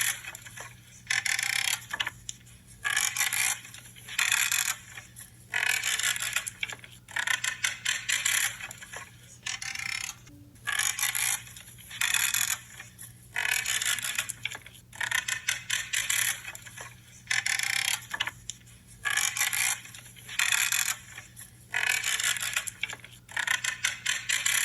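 Branches being cut one after another, each cut a short creaking, crackling crunch as the wood gives way, about one a second.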